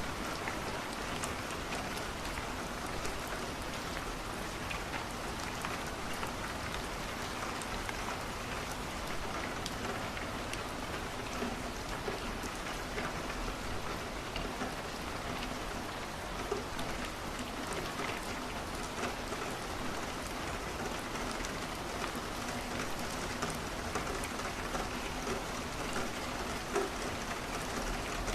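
Steady rain falling on a window, with small scattered ticks from drops and the crackle of a wood fire.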